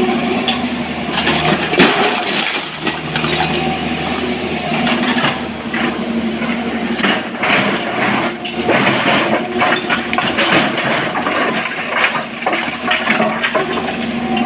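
Rock and stone clattering and cracking in many irregular knocks as an excavator loads a dump truck in a quarry, over the steady running of the excavator's diesel engine.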